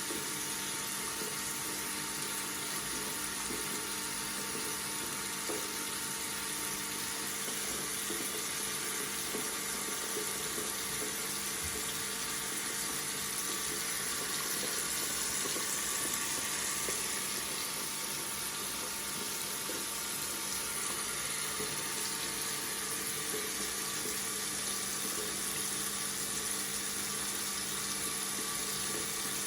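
Water running steadily from a tap into a sink, a continuous even splashing hiss with a faint low hum beneath it.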